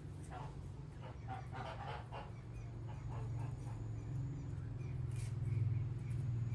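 Short animal calls in the first two seconds, with faint chirps later, over a steady low hum.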